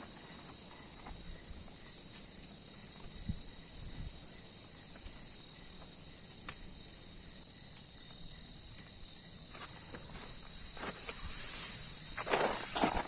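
Forest insects keep up a steady, high-pitched, unbroken drone, with a few small clicks scattered through it. Near the end, louder rustling and crunching of someone moving about breaks in.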